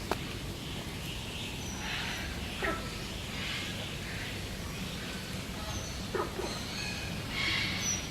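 Birds calling: a scattering of short squawks and harsher screeches, several seconds apart, over a steady low background hum.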